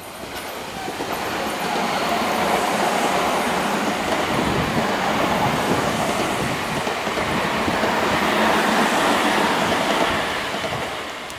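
Tobu 50050-series electric multiple unit passing close by: wheels running on the rails with a clickety-clack. It builds over the first two seconds and fades near the end as the last cars go by.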